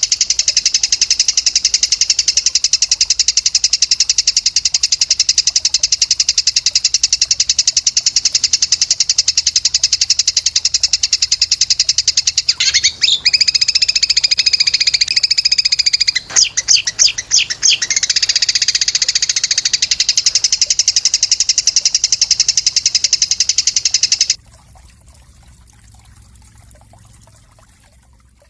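Recorded songbird trill used as a masteran track: a very fast, unbroken high-pitched trill, shifting into warbled, changing notes for a few seconds in the middle. It cuts off abruptly about 24 seconds in, leaving only a faint hiss.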